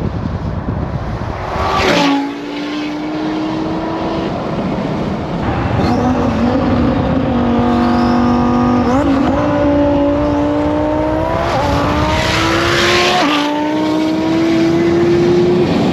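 Twin-turbo Audi R8 V10 engine pulling under acceleration, its pitch climbing steadily and dropping back at each of several gear changes. A brief rushing burst comes about two seconds in, and another around twelve seconds.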